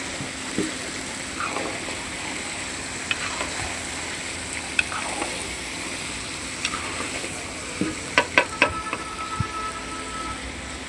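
Food frying with a steady sizzle, with scattered sharp clicks and three loud knocks in quick succession about eight seconds in.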